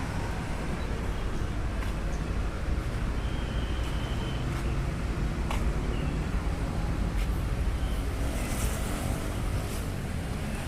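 Steady low rumble of a motor vehicle running, with road traffic noise around it and a few faint clicks.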